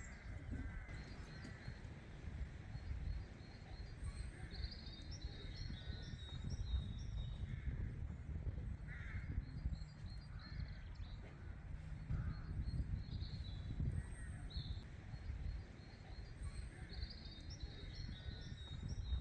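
Several wild birds calling, with short repeated calls and higher chirps scattered throughout, over a steady low rumble.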